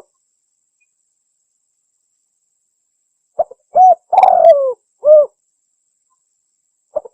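Spotted dove cooing: one phrase starting about three and a half seconds in, made of two short notes, a longer coo sliding down in pitch, and a final coo. The next phrase starts with short notes just at the end.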